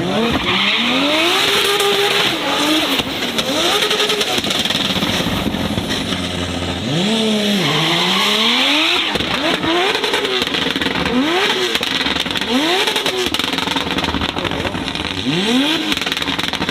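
Race car engine at full throttle, working up through the gears: the pitch rises and drops back at each upshift, again and again. About halfway through it falls away as the car brakes, then climbs again as it accelerates hard.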